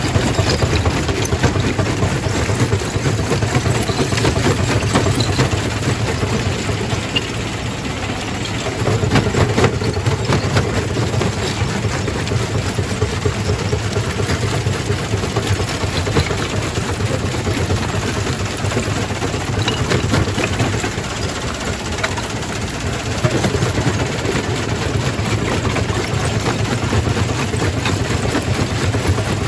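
Quarry primary rock crusher running: a steady, heavy machine drone with scattered sharp knocks.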